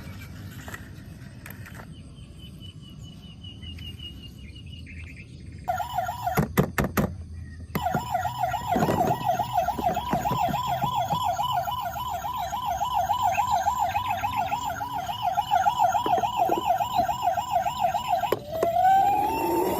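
Electronic toy siren: after a few clicks, a fast warbling siren starts about six seconds in and runs steadily, then switches near the end to a slower rising-and-falling wail.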